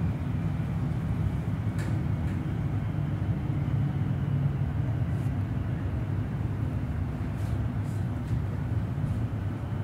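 Steady low rumble of a suburban electric train running, heard from inside the carriage, with a few faint clicks and rattles.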